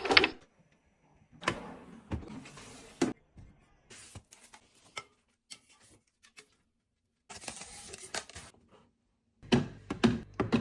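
Scattered clicks, taps and brief rustles of small objects being handled and set down, with short silent gaps between. Near the end a quick series of knocks starts over a low hum.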